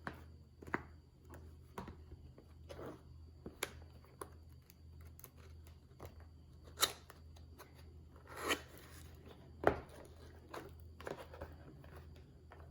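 Packaging being handled: irregular clicks, taps and short rustles, with a sharper click about seven seconds in, a longer rustle just after and a knock soon after that, over a steady low hum.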